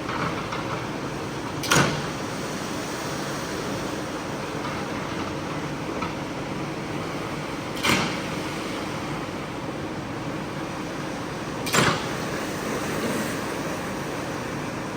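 Steady mechanical running noise, with three sharp knocks: one under two seconds in, one about eight seconds in and one about twelve seconds in.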